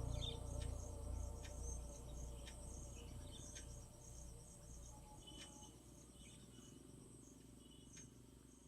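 Insects, crickets or the like, trilling steadily in a high, pulsing tone, with a few short faint chirps, while a low background sound fades away.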